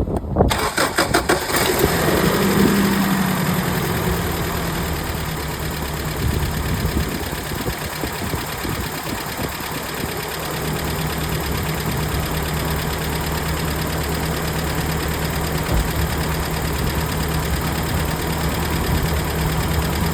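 A 1993 Toyota pickup's 22RE 2.4-litre four-cylinder engine cranks briefly, catches and revs up, then drops back and runs somewhat unevenly before settling into a steady idle about ten seconds in. This is the first start after replacing its air intake valve, and the idle sounds much better.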